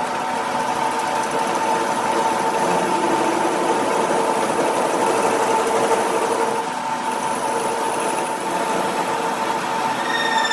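A motor-driven machine running steadily, with a constant whine over an even mechanical noise.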